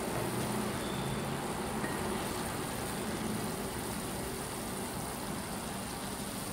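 Pork and broccoli sizzling steadily in a frying pan while being stirred with a wooden spatula.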